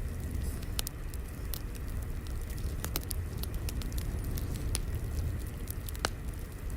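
Crackling wood fire: a steady low rumble with irregular sharp pops and snaps, the strongest about six seconds in.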